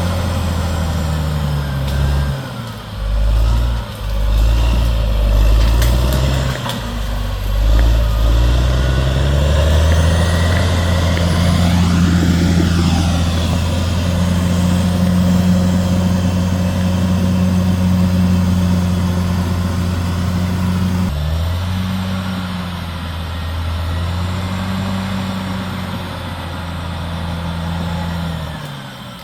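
CAT D6R XL bulldozer's diesel engine working under shifting load, its pitch stepping up and down as it pushes. A brief rising-then-falling whine comes in near the middle, and the engine note changes abruptly about two-thirds of the way through.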